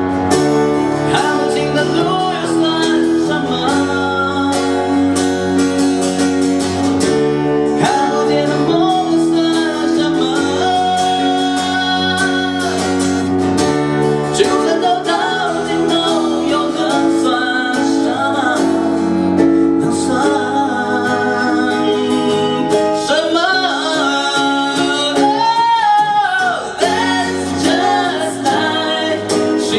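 Live band music: a pop song played on guitar and other instruments, with a voice singing over it.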